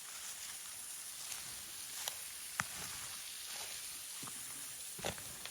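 Faint steady hiss of distant falling water, with a few light scattered clicks and taps, the loudest a little before the end.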